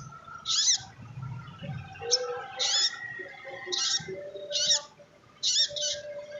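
A sogon trotol spiderhunter calling in short, high, rapidly warbling bursts, five of them about a second apart, with a couple of sharp high clicks in between. This is the bird's excited 'gacor' chatter, used as a recording to draw other sogon into song.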